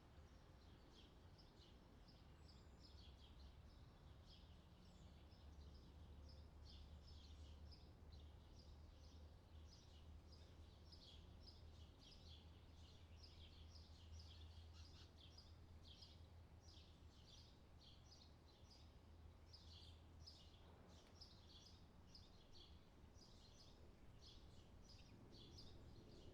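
Faint birdsong: a steady stream of short, high chirps, several a second, over a low steady rumble.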